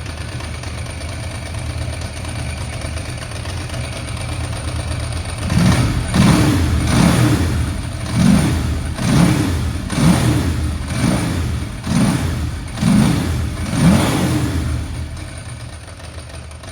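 1995 Ducati 900 SS air-cooled V-twin with Laser exhausts idling after a stone-cold start. It is then blipped on the throttle about nine or ten times, roughly once a second, before settling back to idle near the end.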